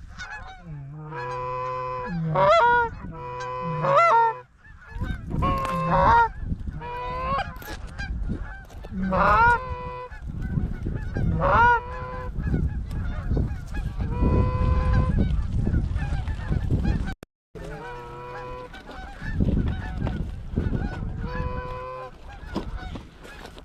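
Goose honking: short, repeated honks and clucks, some in quick runs of two or three, keeping up throughout.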